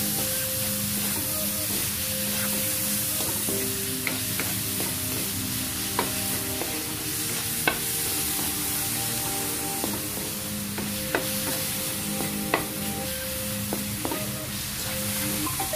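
Bagoong alamang (shrimp paste) frying with onion, garlic and ginger in an oiled pan: a steady sizzle as a wooden spatula stirs it, with a few sharp taps of the spatula against the pan.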